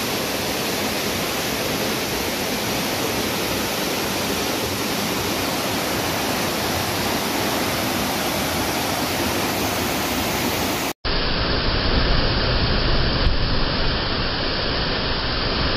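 Waterfall with a steady rush of falling water. About 11 seconds in it cuts abruptly to a duller recording of the falls with a deeper rumble.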